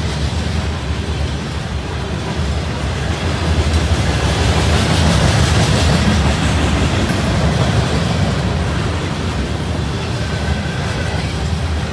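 Covered hopper cars of a freight grain train rolling past close by: a steady rumble and rattle of steel wheels on the rails, growing a little louder midway.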